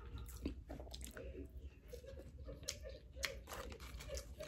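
A person chewing a mouthful of Wingstop voodoo fries, soft cheese-topped fries, close to the microphone, with wet mouth clicks and smacks scattered throughout.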